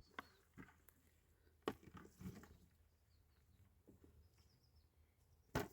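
Faint rural quiet: a few scattered soft knocks and taps, a sharper knock near the end, and faint short bird chirps in the background.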